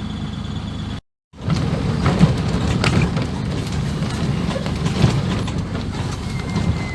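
Land Rover Series III engine running at low speed while the vehicle drives down a rough, rocky track, with frequent knocks and rattles from the body. The sound cuts out completely for a moment about a second in, then comes back rougher.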